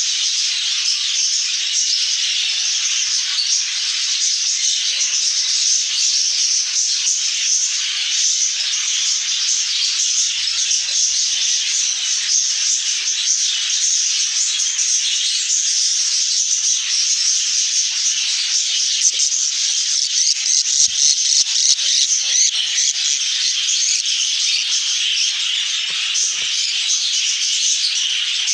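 A flock of budgerigars chattering and chirping continuously, a dense high-pitched twittering chorus.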